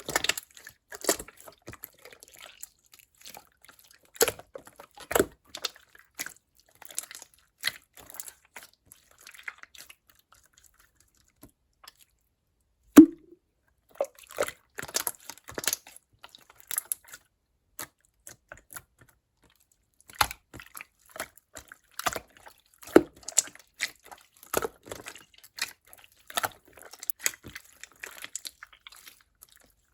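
Clear slime being pressed, stretched and folded by hand, giving irregular sticky clicks and little pops. It pauses briefly about ten seconds in, then resumes with one louder pop.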